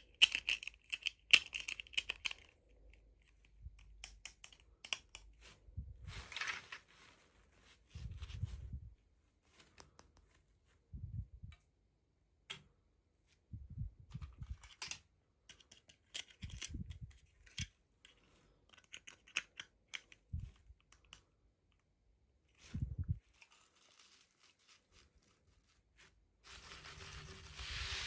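Toy doll packaging being handled and opened by hand: scattered sharp clicks and taps with short scrapes and rustles of plastic and cardboard. A steady hiss starts near the end.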